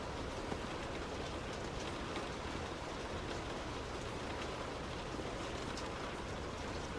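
Heavy rain on a moving car, a steady wash of noise with scattered drop ticks over the low road rumble of the drive.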